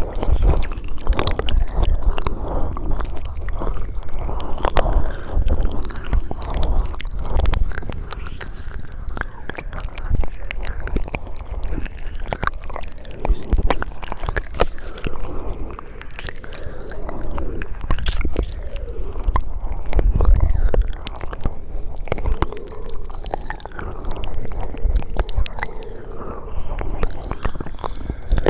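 ASMR mouth sounds: a continuous run of wet clicks, smacks and squishing, with no words.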